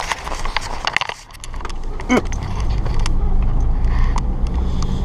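Several clicks and knocks, then a vehicle engine comes in about a second and a half in and runs with a steady low rumble that grows louder.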